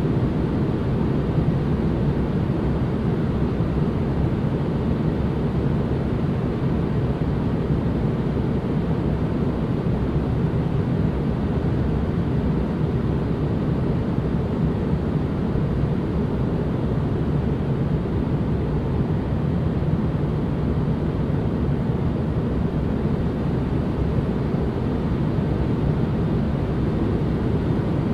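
Steady, unchanging ambient noise from a relaxation noise track, deep and rumbling, with most of its weight low and only a little hiss on top.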